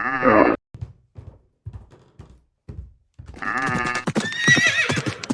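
Stampede sound effects. A pitched animal call ends just after the start and is followed by a series of separate hoof thuds. From about three seconds in comes a long, pulsing animal call, with high chirping bird-like calls layered over it near the end.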